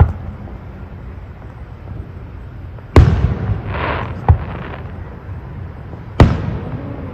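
Fireworks bursting overhead in a series of sharp bangs: one at the start, a loud one about three seconds in followed by a crackle and a smaller bang, and another loud bang near the end.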